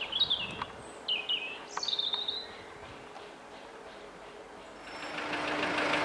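A small songbird sings three short warbling phrases over a faint steady hum. About five seconds in, a diesel engine fades up, running with a fast even knock.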